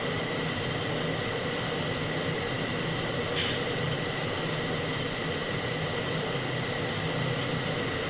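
TIG welding arc on carbon steel: a steady hiss with a constant hum and a faint high tone, with one brief tick about three and a half seconds in.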